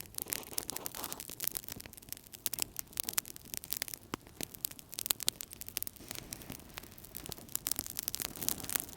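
Wood fire burning in a fireplace: many irregular crackles and pops over a steady low rush of the flames.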